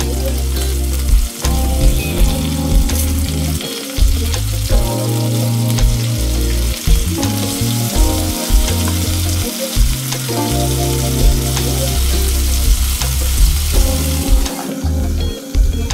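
Chicken thighs frying in oil and butter in an uncovered pan: a steady sizzle while a fork turns the pieces. The sizzle drops away near the end. Background music with a bass line plays underneath.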